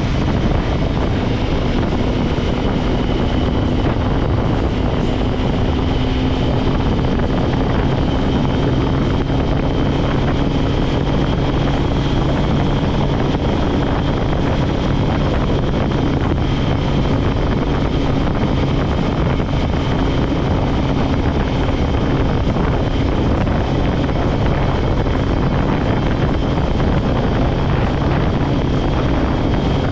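Kawasaki ZX-10R's inline-four engine running at a steady cruising speed, its note holding nearly level in pitch, over a steady rush of wind and road noise.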